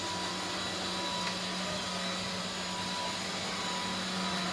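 Steady whirr of an electric motor moving air, with a constant low hum beneath it.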